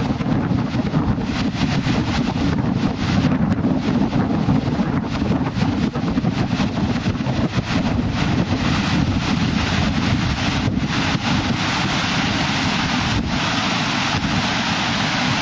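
Typhoon wind buffeting the microphone in heavy, continuous gusts over a steady broad rush of noise.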